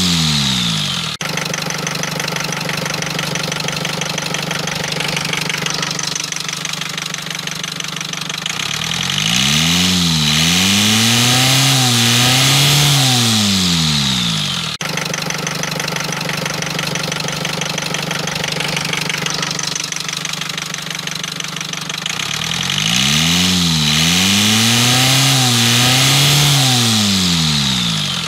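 Rover 25 diesel engine running at idle and twice revved up and let back down, the pitch climbing and falling over a few seconds each time. It is being run to show an engine noise.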